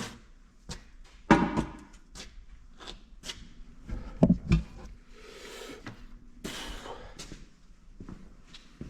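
Scattered knocks, clunks and scraping of objects being moved and set down on a workbench to clear space. A pair of heavier thuds come about four seconds in, and there are two stretches of sliding or rustling after them.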